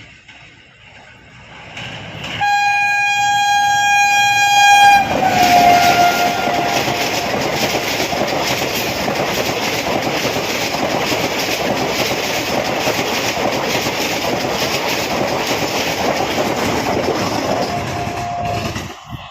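Indian Railways train sounding its horn for a few seconds as it approaches, the horn dropping slightly in pitch as it passes, then the loud steady rumble and wheel clatter of the coaches crossing a river bridge at speed. A short horn note sounds near the end, and the rumble cuts off suddenly.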